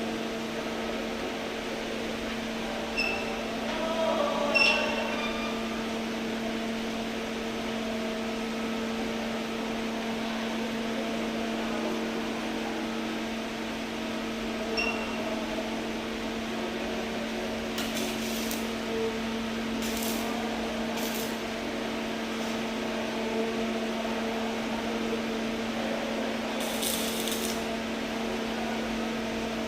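Welding machine running with a steady electrical hum over an even hiss, a few faint ticks early on, and several short scratchy bursts in the second half.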